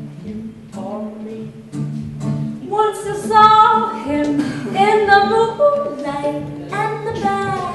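A voice singing a slow folk song with long held notes, over sustained low accompanying notes.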